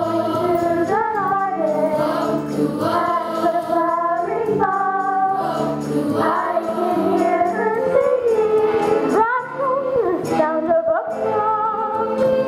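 Music with voices singing sustained notes over a steady accompaniment, changing pitch every second or so.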